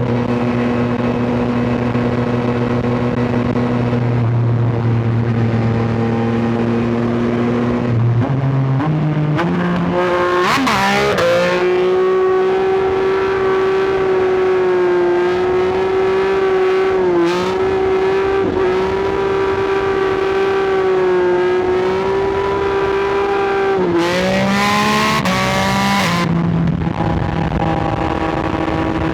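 Sport motorcycle engine and exhaust heard from the rider's seat: steady at low revs, then climbing in steps to a high steady pitch held for about twelve seconds with a brief dip partway through, then dropping back in steps near the end. A rush of wind noise rises with each change in speed.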